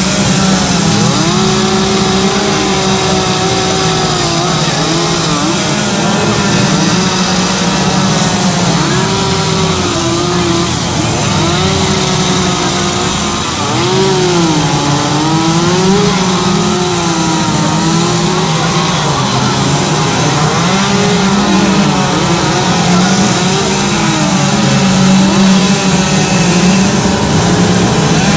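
Chainsaws carving wood, running loud and continuous, their engine pitch wavering up and down as they rev and load up in the cut.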